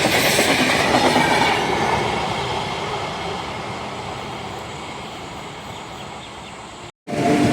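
Express train running on the track, loud at first and then fading away steadily over several seconds. It cuts off abruptly near the end, and after a short gap loud train noise resumes with a steady high tone.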